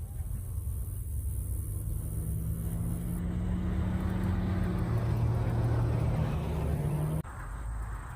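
Car engine running with a low, steady exhaust note, growing louder as the car pulls out of the lot and drives close by. The sound cuts off abruptly about seven seconds in.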